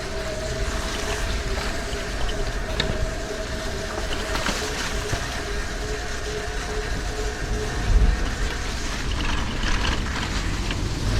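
Street noise while cycling: low wind rumble on the microphone and road noise, with a steady hum that fades out about seven seconds in. The rumble swells briefly near the end.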